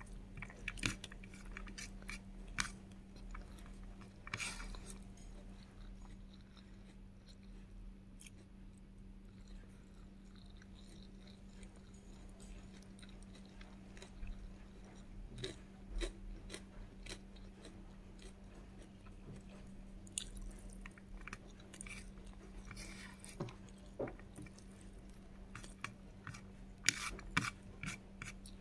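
Close-miked chewing and mouth sounds of a person eating rice with egg and bacon: irregular wet clicks and smacks, sparse in the middle and coming thick near the end. A steady low hum lies underneath.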